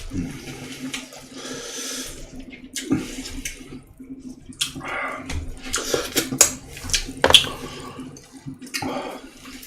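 Wet eating sounds close to the microphone: slurping and chewing at first, then a run of sharp lip smacks and mouth clicks in the second half.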